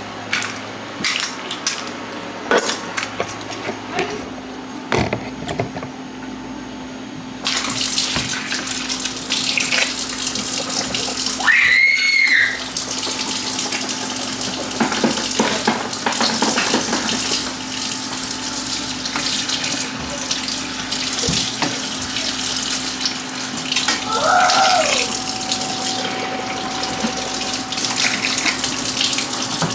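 Water running from a tap into a sink, starting about seven seconds in, with light clicks and clatter before it. A steady low hum sits underneath.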